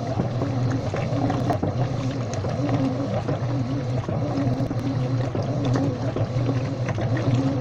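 Washing machine running: a steady motor hum with a wavering tone that repeats about once a second, over water sloshing in the drum.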